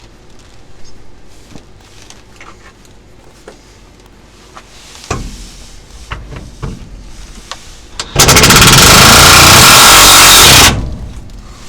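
Scattered light clinks and knocks of hand work, then, about eight seconds in, a handheld power tool runs in one loud burst of about two and a half seconds and stops abruptly.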